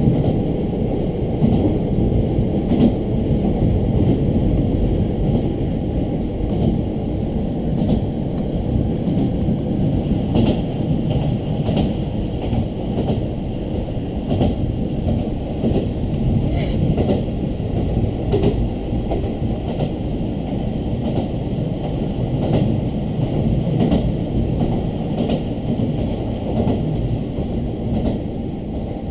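Diesel railcar running along the line, heard from inside the carriage: a steady low rumble of engine and wheels on rail, with occasional faint clicks.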